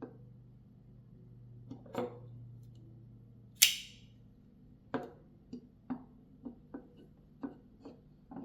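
A flipper folding knife being handled: one sharp, bright metallic snap about a third of the way in, followed by a run of light clicks and taps roughly twice a second.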